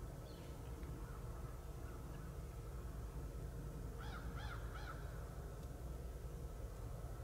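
A bird calling outdoors: a quick run of about four calls around four seconds in, with a few fainter calls earlier, over a steady low rumble.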